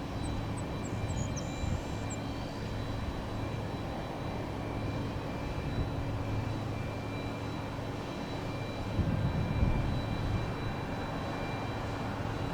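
Airbus A319 jet engines running steadily at low power, a constant rumble with a thin high whine. A few short high chirps sound in the first two seconds.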